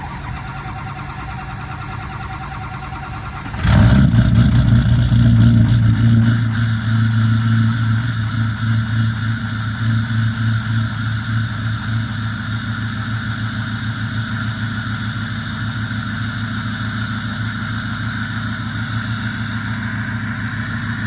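6.0 Powerstroke V8 turbo-diesel cranking, then catching about three and a half seconds in on a cold start. It runs loud for a couple of seconds, then settles into a steady idle.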